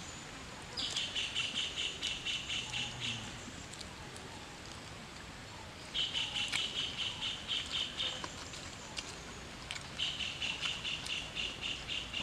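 A wild bird calling in three bouts of rapid, high trilling notes, each bout about two seconds long and a few seconds apart.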